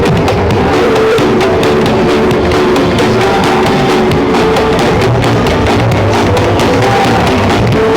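Loud music with a steady drum beat played through a miniature sound-system rig.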